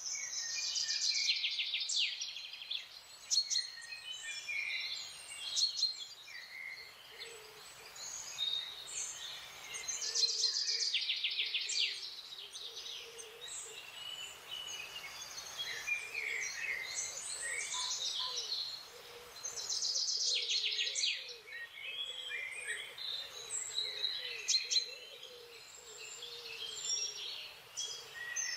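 Forest birds singing and calling: a loud, rapid chattering song comes back about every ten seconds, with many short chirps from other birds in between and a faint low warbling through the middle.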